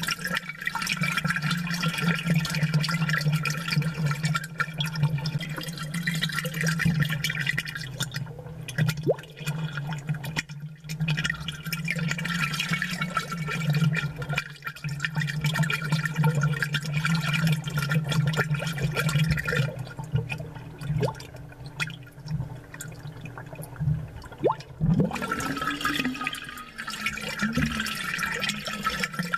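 Aquarium bubbles rising and burbling continuously, picked up close and amplified, with many small pops and a steady low hum underneath.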